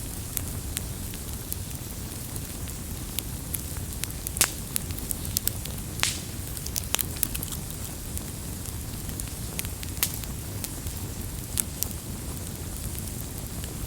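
Wood campfire crackling: a steady low rumble of flames with sharp, irregular pops and snaps, a few louder pops scattered through.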